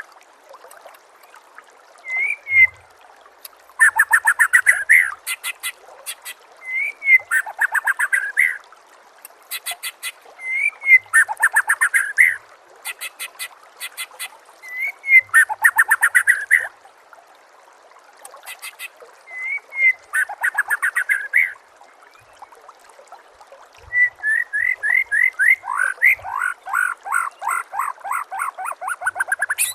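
Recorded songbird song: a short rising note followed by a rapid run of falling whistles, repeated about every three to four seconds. A very high, fast trill runs alongside.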